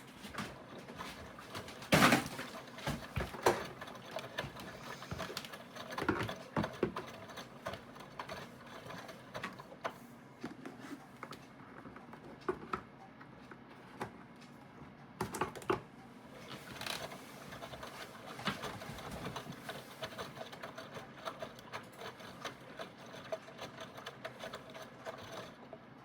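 Aidoo 1 kg mini washing machine agitating its load during the rinse, with irregular clicks and knocks. The loudest knock comes about two seconds in, and the sound stops near the end.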